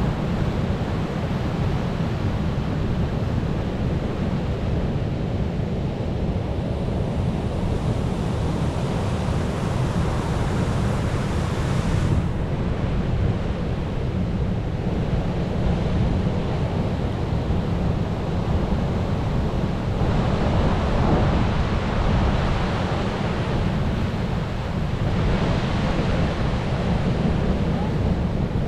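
Ocean surf: a continuous wash of waves with a deep low rumble, swelling as waves break and rush in, with wind rumbling on the microphone.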